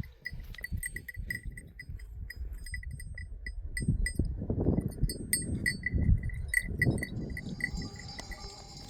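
Small metal livestock bells clinking irregularly, several strikes a second, as the herd moves. Low rustling and thumps come up under the bells in the middle.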